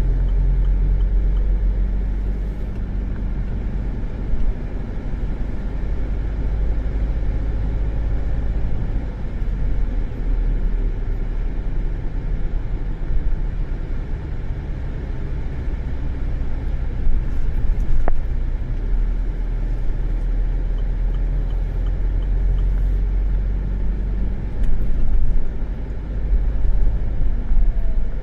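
Car heard from inside the cabin: a steady low rumble of engine and road noise.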